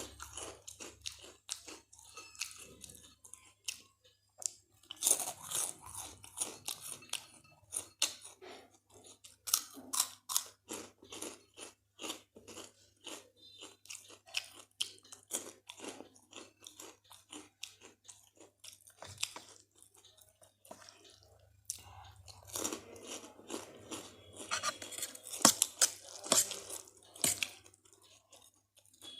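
Close-miked chewing of spicy Maggi noodles mixed with crunchy Kurkure, with many sharp, irregular crunches. The crunching grows denser about three-quarters of the way through.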